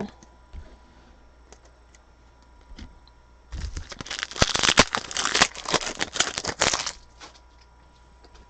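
A trading-card pack's foil wrapper being torn open and crinkled. It is a dense crackling burst that starts a few seconds in and lasts about three seconds, after a few faint clicks of handling.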